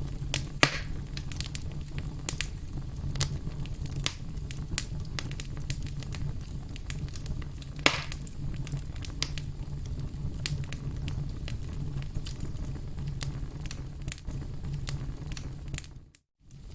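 Firewood burning, crackling steadily with many small pops over a low rumble. Two louder pops come about half a second in and near the eight-second mark. Near the end the sound cuts out briefly and comes back.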